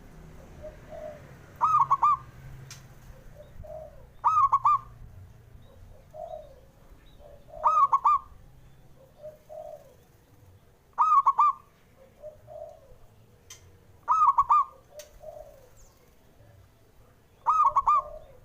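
Male zebra dove (perkutut) cooing its repeated song. A loud phrase of three or four quick, bubbling notes comes about every three seconds, six times, with softer, lower coos in between. This is a calling track used to stir quiet perkutut into singing.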